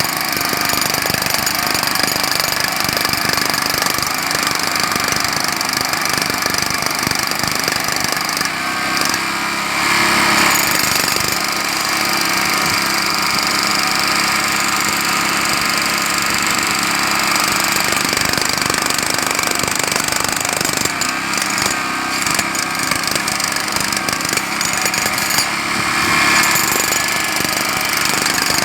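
Jackhammer hammering continuously at a steady rapid rate, breaking pavement, with an engine running underneath. It surges briefly about ten seconds in and again near the end.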